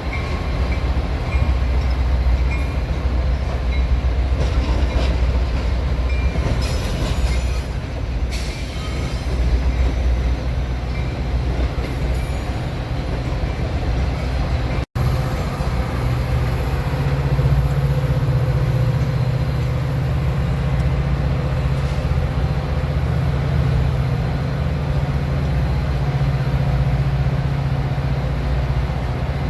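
A train rolling past with a steady low rumble of locomotive and railcars, with a few brief high-pitched bursts about a quarter and two fifths of the way in. There is an abrupt cut about halfway through, after which a steady low engine drone carries on.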